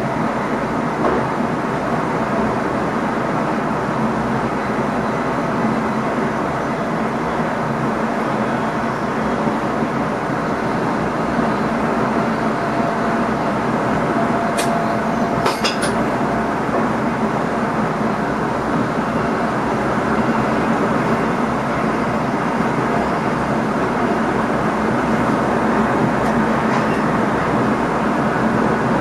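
Steady running noise in the driver's cab of an NS ICM (Koploper) electric multiple unit under way: an even rumble and hiss of the train on the rails. A few sharp clicks come a little past halfway.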